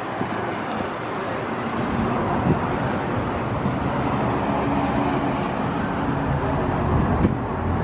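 A car running with steady engine and road noise.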